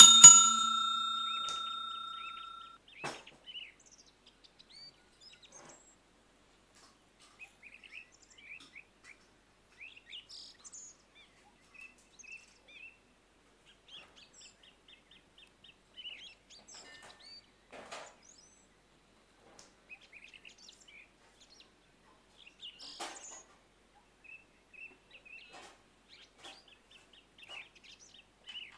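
A sharp clink sets a kitchen utensil or dish ringing with a clear, bell-like tone that fades over about two and a half seconds. After that, birds chirp faintly now and then, with a few soft clicks and knocks.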